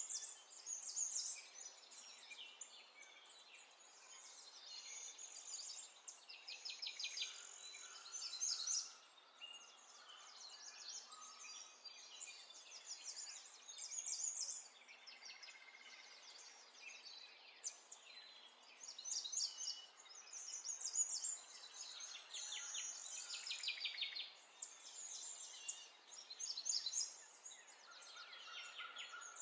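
Small birds chirping and trilling, call after call, over a faint steady hiss.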